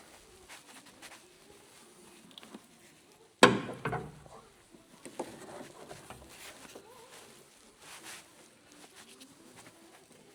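Tools and parts being handled during coilover assembly: light clicks and clatter, with one loud sharp knock about three and a half seconds in, followed closely by a second hit and a brief ring.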